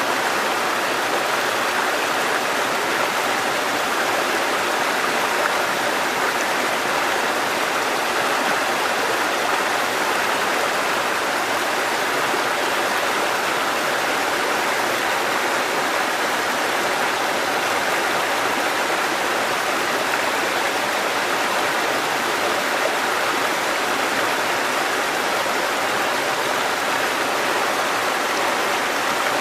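Mountain stream water cascading over rocks, a steady unbroken rush.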